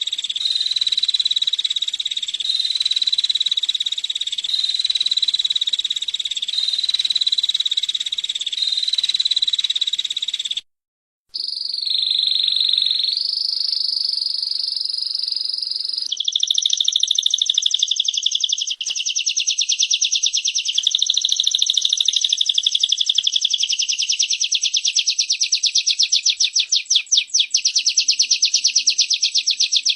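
Female prinia (prenjak) and canary calling, in continuous high-pitched rapid trills. The sound cuts out completely for about half a second just before 11 s. From about 16 s in the trill turns faster and more rattling.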